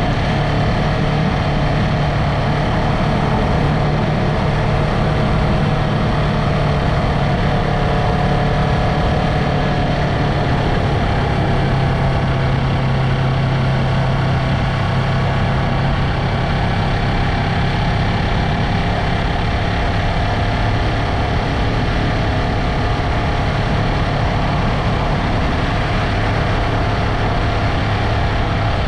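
Yamaha MT-03 motorcycle engine running at steady, nearly constant revs, with only a slight shift in pitch near the end.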